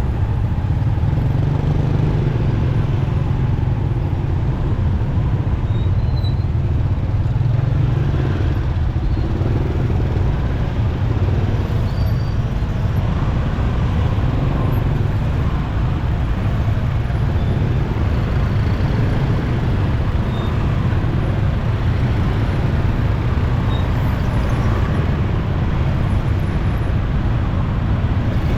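Steady rumble of riding a motorcycle in city traffic: wind and road noise on the microphone, with the bike's engine and surrounding traffic mixed in.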